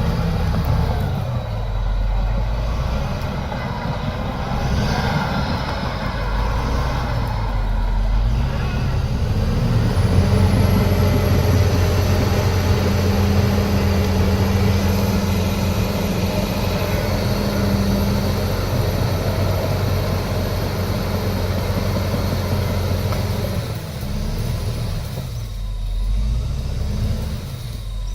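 Diesel engine of heavy earthmoving equipment working. Its pitch rises and falls over the first several seconds, then holds steady under heavy load with a faint high whine for about thirteen seconds, before easing off again near the end.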